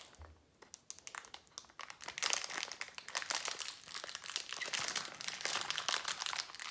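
Packaging of a Funko Mystery Mini blind box being crinkled and torn at by hand, with dense crackling that starts about a second in and gets louder.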